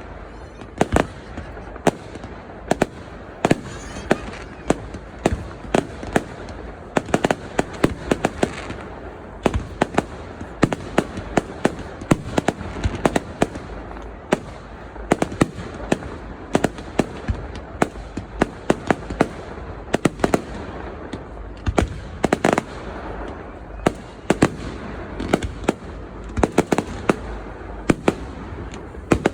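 Aerial fireworks display: a continuous barrage of sharp bangs and pops, several a second at irregular intervals, with the murmur of a crowd underneath.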